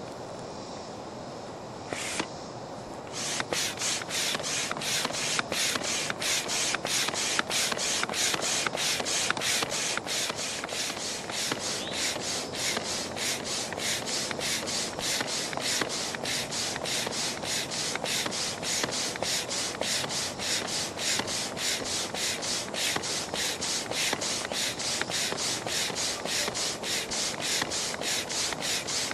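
Foot pump being worked at a steady pace of about two strokes a second, each stroke a short rush of air, inflating a raft's hull chamber. The pumping starts about three seconds in.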